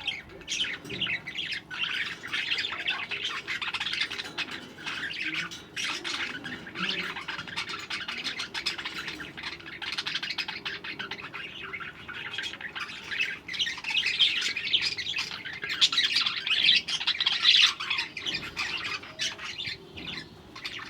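Budgerigars chattering and squawking, a dense run of short, high calls that goes on without a break and gets busier near the end.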